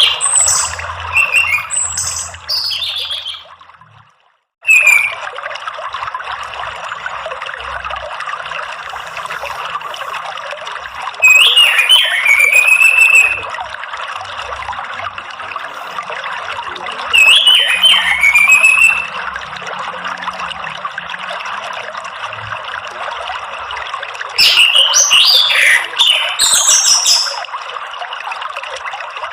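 Orange-headed thrush song phrases of quick, gliding whistled notes with high twittering, about every six to seven seconds, over steady running water. The audio drops out briefly about four seconds in.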